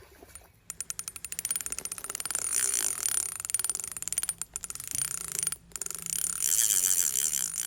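Spinning reel clicking rapidly and evenly while a hooked fish is played. The clicking starts about a second in, breaks off briefly twice in the middle, and continues until near the end.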